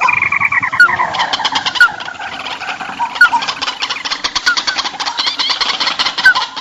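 Dense, noisy chatter of a flock of small rice-field birds, with many rapid chirps and short rising calls overlapping: a bird-lure call recording used to draw field birds in.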